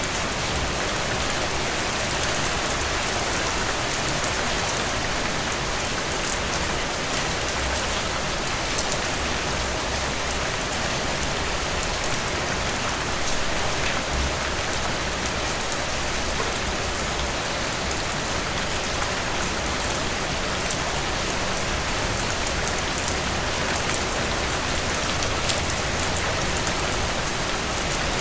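Steady rainfall: an even hiss of rain on surfaces with fine individual drop ticks, no thunder.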